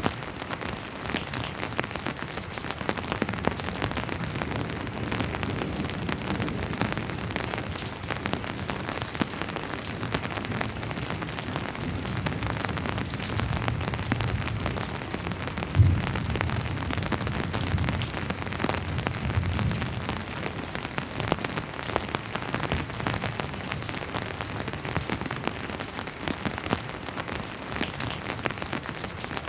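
Steady rainfall with many individual drops striking a surface. A low rumble of distant thunder rolls through the middle, and one sharp, louder knock stands out about sixteen seconds in.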